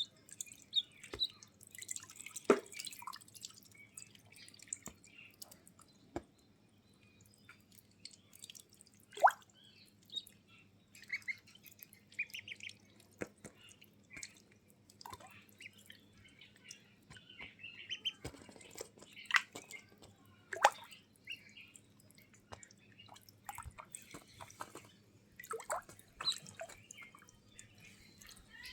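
Ducks in water: scattered small splashes and drips, with short bird chirps now and then.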